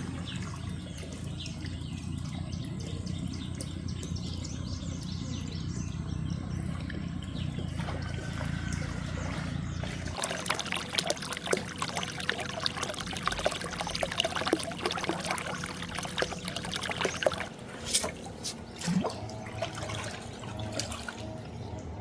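Water trickling steadily, then, after an abrupt change about halfway, closer splashing with many sharp clicks and knocks.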